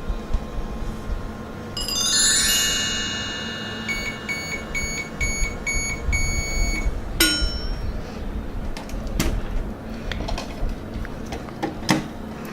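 Toy microwave playset's electronic sounds: a falling run of chime tones, then beeps at about two a second for some three seconds, followed by a sharp click. Soft background music runs underneath.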